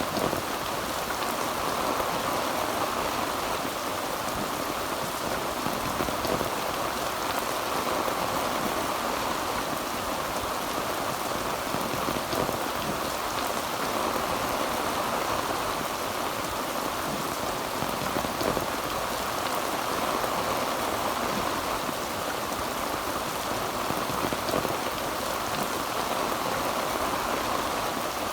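Heavy rain drumming steadily on a tin roof, a dense even patter with no thunder.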